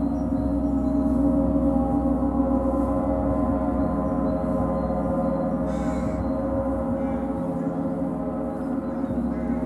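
A gong played in a gong bath, ringing on in a sustained wash of many overlapping tones.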